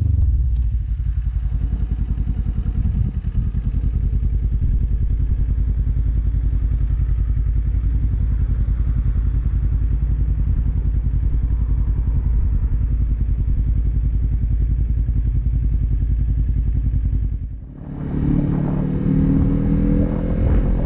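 2019 Kawasaki Z400 parallel-twin engine with an Akrapovic exhaust idling with a steady low pulsing beat. Near the end it dips briefly, then rises in pitch as the bike revs up and pulls away.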